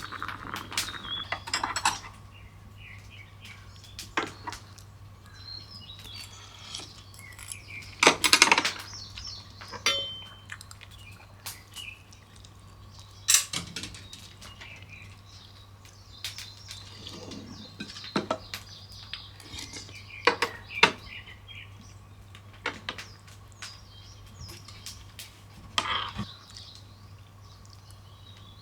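Cutlery clinking and knocking against dishes at irregular intervals, with a few louder clinks, over a low steady hum and occasional bird chirps.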